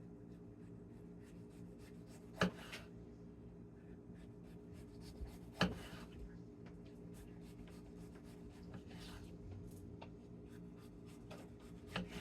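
Knife slicing soft sour cabbage thin on a cutting board: a run of quick, fine cutting strokes, with three louder knocks, about two and a half seconds in, near the middle and at the end. A steady low hum runs underneath.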